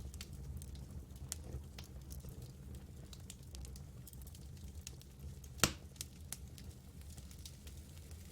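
Campfire crackling, burning wood giving off frequent small snaps and one loud pop a little past halfway, over a low steady rumble.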